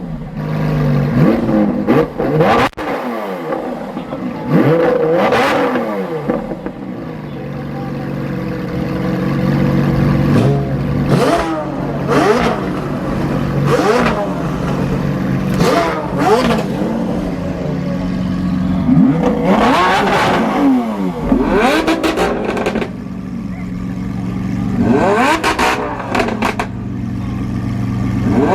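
Car engine revved over and over, its pitch climbing and dropping in quick blips about every second or two and falling back to a steady idle between, with a calmer idling stretch about two-thirds of the way through.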